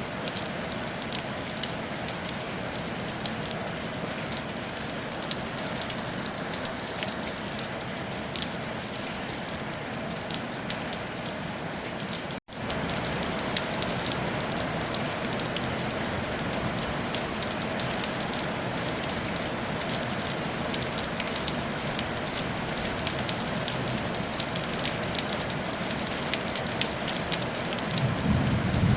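Steady rain falling on a tiled roof: an even hiss with a dense patter of individual drops. The sound drops out for an instant about twelve seconds in, and a short low rumble swells near the end.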